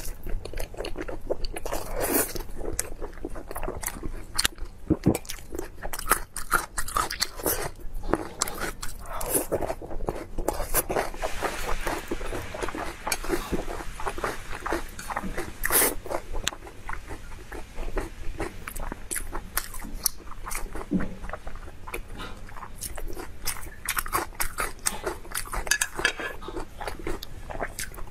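Close-miked eating sounds: repeated biting and chewing of braised food in red sauce, with many short, irregular mouth clicks and smacks.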